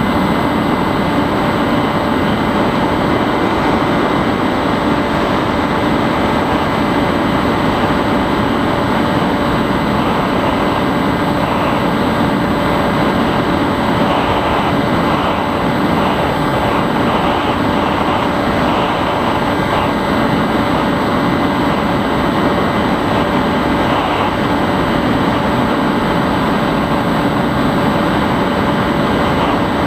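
Onboard sound of a Bixler 3 RC plane in flight: its electric motor and propeller running at a steady speed under rushing air, with a thin steady whine over a loud even noise.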